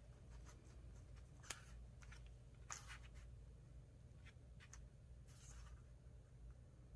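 Near silence, with a few faint clicks and a brief soft rustle of paper and tools being handled on a craft table.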